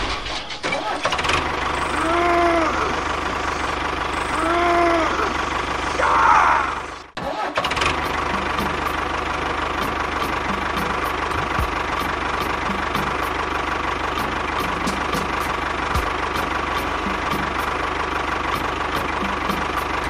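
Tractor engine running steadily, with two short rising-and-falling tones in the first few seconds and a brief break about seven seconds in.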